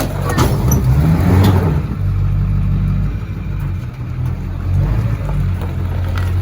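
2003 LB7 Duramax V8 turbo-diesel pickup engine revving as the truck works over a scrap car, with sharp cracks and clatter in the first two seconds. The engine then runs steadily.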